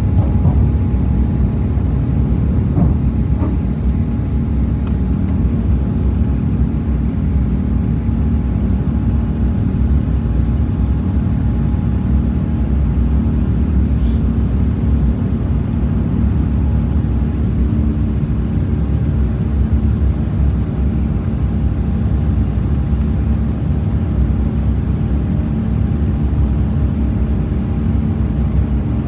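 Steady cabin drone of an Airbus A350-1000: engine and airflow noise with a few steady hum tones.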